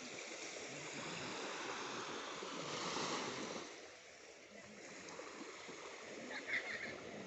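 Sea waves washing onto a beach. The surf swells to a peak about three seconds in, draws back and quietens, then builds again.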